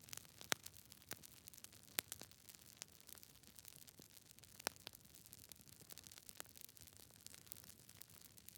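Wood fire crackling in a fireplace: irregular sharp pops and snaps over a faint hiss, with the loudest pops about half a second in, at two seconds and near five seconds.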